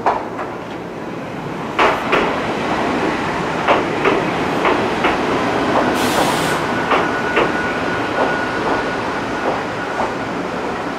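Ichibata Electric Railway electric train rolling past at low speed, its wheels clicking over the rail joints in regular pairs. A brief hiss comes about six seconds in, followed by a thin steady whine.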